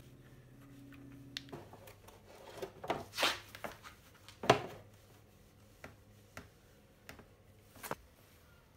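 Scattered clicks and knocks of tools and metal parts being handled on a small engine during an oil change, the loudest knock about four and a half seconds in, with a faint steady hum fading out in the first second and a half.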